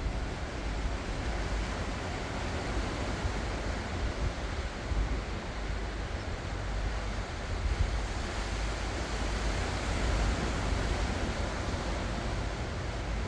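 Ocean surf: waves breaking and washing onto the shore in a continuous wash that swells and eases, over a steady low rumble.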